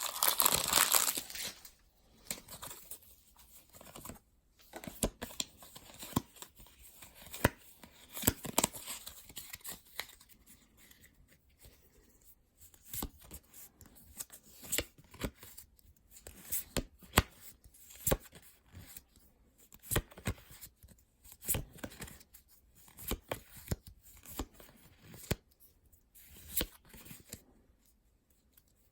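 A foil Pokémon booster pack crinkling and tearing open, then trading cards being handled one after another in many short, irregular snaps and flicks.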